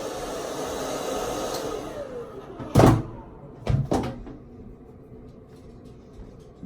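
Handheld hair dryer blowing, then switched off, its motor whine falling as it winds down. About three seconds in comes a loud knock, followed by two lighter knocks.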